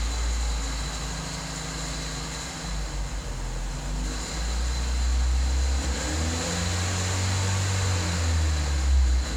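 VW Scirocco 1.4 TSI 160 PS engine running with a faint steady high whine over its low hum; the engine note steps up a little about six seconds in. It carries the odd noise the owner has heard since the car's first 400 km.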